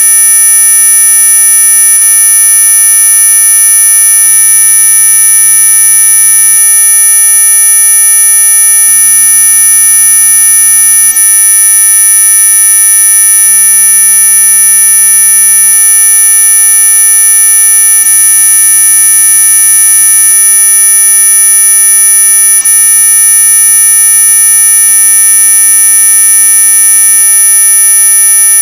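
Electronic mosquito-repellent tone: a loud, steady, high-pitched whine made of several constant pitches sounding together, the strongest near the top of hearing.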